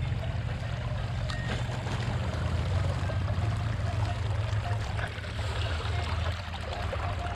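Honda CB 500X parallel-twin engine running steadily under way, with a steady rush of wind noise.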